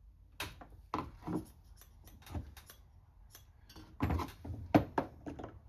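Hand tools and small metal carburetor parts being handled: scattered short clicks, taps and clinks, a few louder knocks about four to five seconds in.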